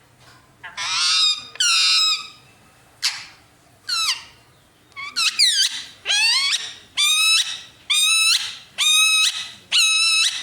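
Indian ringneck parakeet giving a series of about ten loud short calls, roughly one a second, the later ones sweeping up in pitch and then holding.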